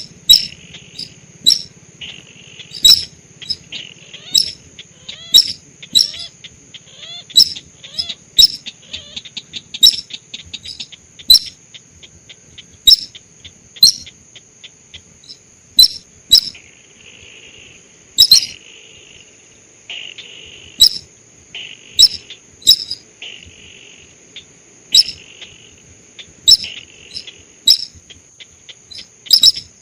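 Lure call of the sintar sawah, a paddy-field bird: sharp, high, clicking notes repeated at uneven intervals, speeding into a quick run of ticks about ten seconds in. A steady high whine runs underneath.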